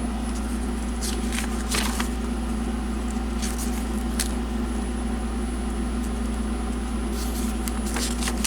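Steady low hum with no change in level, with a few faint light clicks or handling noises scattered through it.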